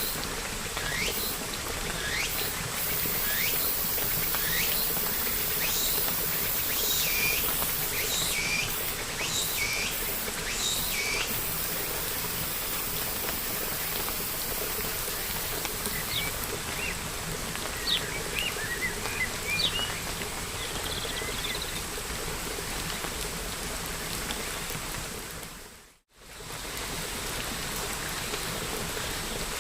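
Steady rain with a bird calling in short, repeated sweeping chirps, about one a second for the first dozen seconds, then only scattered chirps. About 26 seconds in, the sound briefly fades out and comes back.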